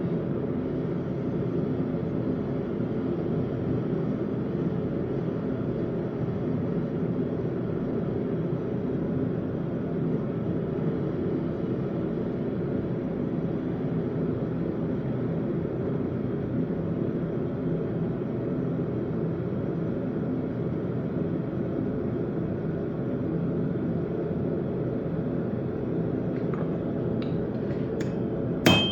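A forge running with a steady, low rushing noise. Right at the end, a hammer strikes hot metal on the anvil.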